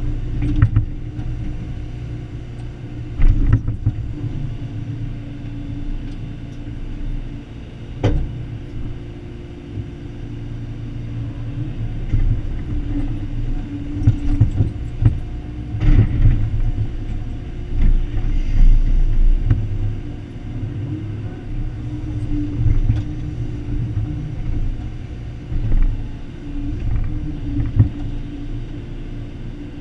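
Excavator's diesel engine running steadily under digging load, with several sharp knocks and clanks from the working machine.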